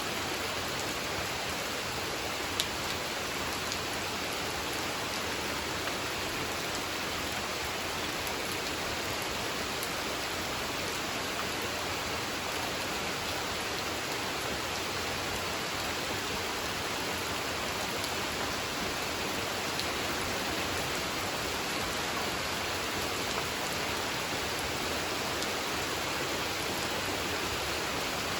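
Steady rain falling onto a pond, a dense even hiss with the odd sharper drop tick.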